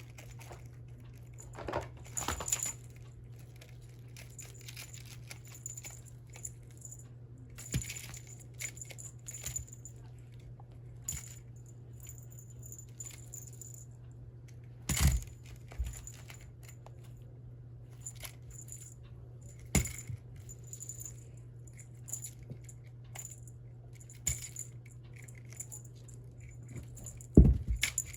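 Scattered light clinks and rattles with a few sharper knocks, the loudest one near the end, over a steady low hum.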